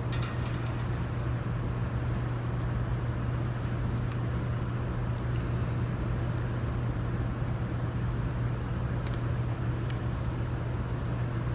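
Steady low hum and rumble of background room noise, with a few faint clicks.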